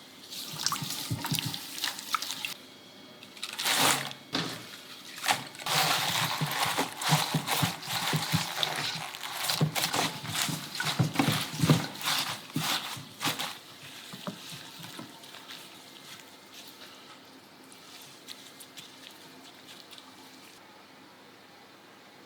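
Water running and splashing in a kitchen sink, with knocks and clatter, for about the first thirteen seconds, then a fainter steady trickle.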